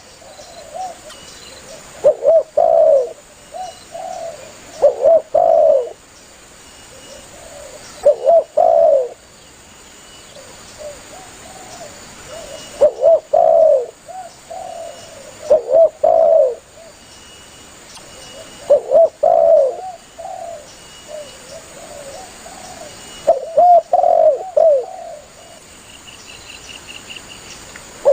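Spotted dove (tekukur) cooing: short phrases of a few low, looping coos, repeated every three to four seconds. This is the bird's call to other doves. Faint high chirps sound between the phrases.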